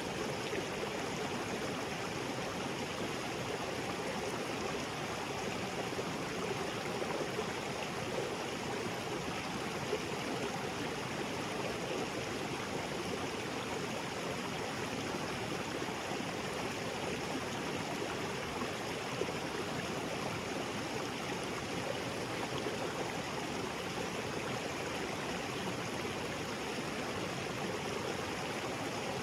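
Small waterfall splashing into a rocky creek, with the stream's steady rushing and gurgling.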